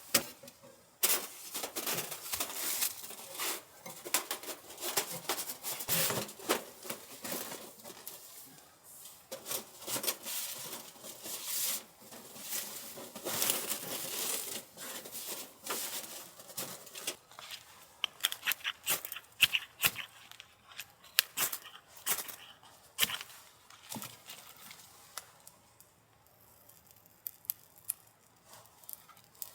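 Irregular crinkling, rustling and tearing handling noises, dense at first and thinning out, with a quieter spell near the end.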